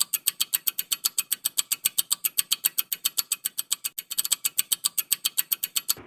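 Rapid, even ticking of a timer sound effect, about seven ticks a second, stopping just before the end.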